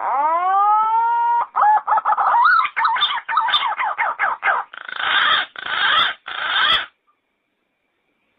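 Yellow-footed green pigeon song: a long rising whistle, then a run of quick wavering whistled notes, ending in three harsher, rougher notes, about seven seconds in all.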